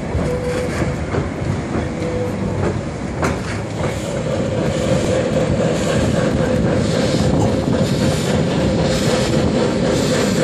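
Train coach rolling along the track, heard from inside the car: a steady rumble with wheels clicking over rail joints. From about four seconds in, a sustained high squeal of wheels on a curve joins it, and the running grows a little louder.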